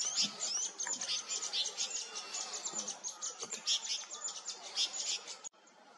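Whiskered yuhina chirping and twittering: a dense run of quick, high notes, some sliding up or down, that cuts off abruptly about five and a half seconds in.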